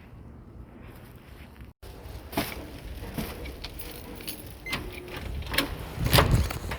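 Keys jangling: a run of metallic clinks and rattles, with a heavier knock near the end.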